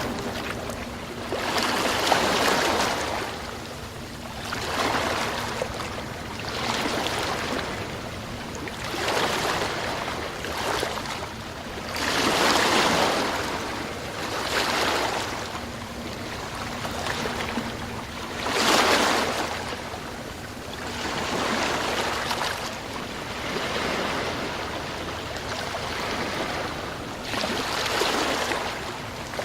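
Sea waves breaking and washing ashore in repeated swells, each rising and falling over two or three seconds, the biggest about two, twelve and nineteen seconds in.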